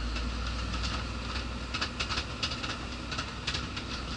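Scania lorry's diesel engine running steadily at low revs, with light irregular rattles and clicks over the engine hum.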